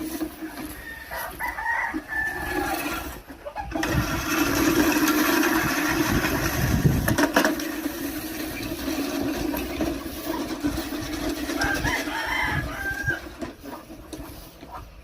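Rooster crowing, once a second or two in and again near the end, over a steady rushing noise that is loudest in the middle.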